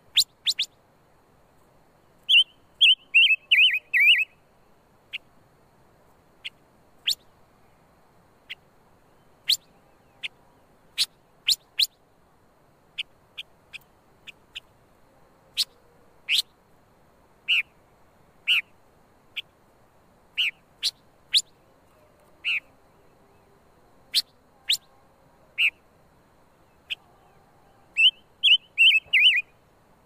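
Silver-eared mesia calling: scattered short, sharp single notes, with two quick runs of falling notes, one about two seconds in and one near the end.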